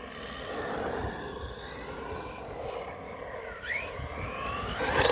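JLB Cheetah RC buggy's brushless electric motor whining as it drives, the pitch gliding up and down with the throttle and rising sharply near the end.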